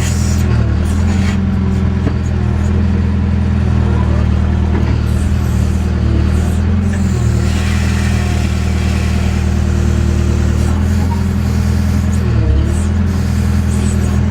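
JCB backhoe loader's diesel engine running steadily, with its pitch dipping briefly about twelve seconds in.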